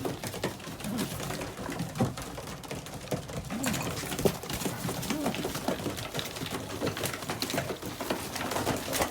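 Racing pigeons cooing in a loft, mixed with many quick clicks and taps of beaks pecking peanuts from a hand.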